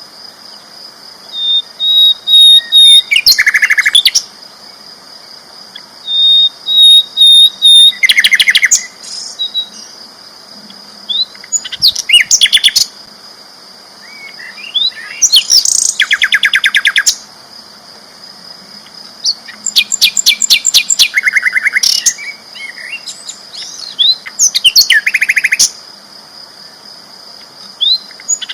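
A sikatan londo flycatcher singing loudly in repeated phrases about a second long, a few seconds apart. The phrases are rapid dry trills, some led in by a few short clear whistles. A faint steady high tone runs underneath.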